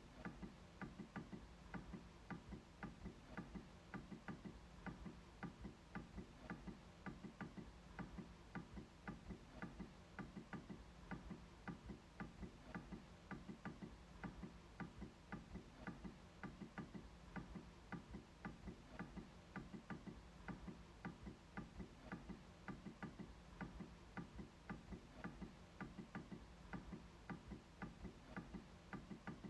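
MacBook trackpad being clicked over and over in a steady, even rhythm of about three faint clicks a second.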